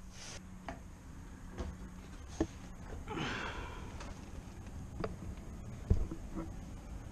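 Scattered light knocks and thumps, about six spread out, with a brief rasping sound about three seconds in.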